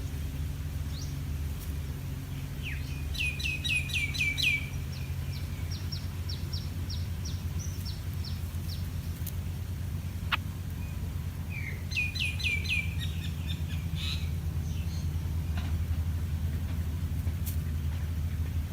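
A bird calling in two bursts of rapid repeated chirps, each trailing off into fainter notes, over a steady low outdoor rumble.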